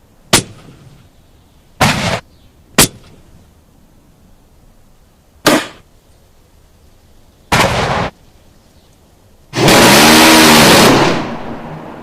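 Gunshot sound effects, loud: single sharp shots and short bursts of gunfire, a few seconds apart, then a longer continuous blast of about a second and a half near the end that dies away slowly.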